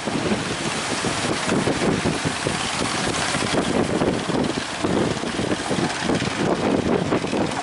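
Strong wind buffeting the microphone: a steady, rushing noise that flutters and gusts without a break.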